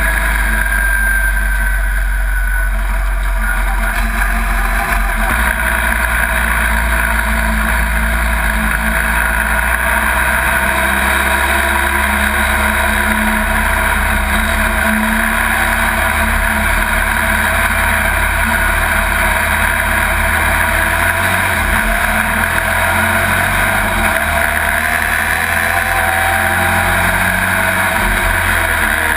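Pro Truck race truck's engine running loud and steady under racing load, heard from inside the cab.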